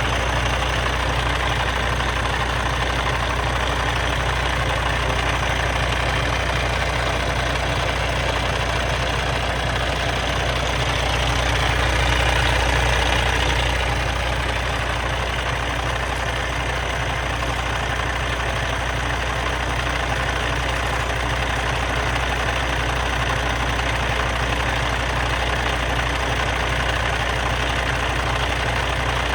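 Diesel engine of a 2019 Kenworth T680 sleeper truck idling steadily, briefly growing a little louder about halfway through.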